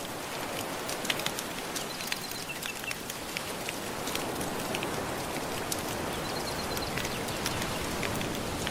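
Wood fire crackling with irregular sharp pops over a steady, soft wash of gentle ocean waves.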